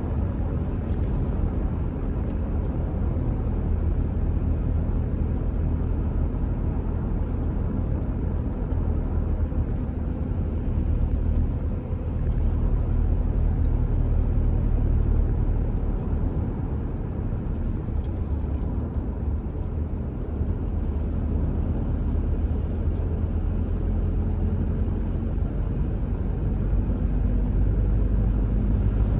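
A car driving at a steady pace: a constant low rumble of engine and tyre road noise that swells a little around the middle and near the end.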